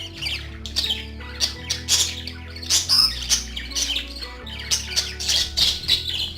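Budgerigars chattering and squawking in a quick, dense run of short, harsh calls.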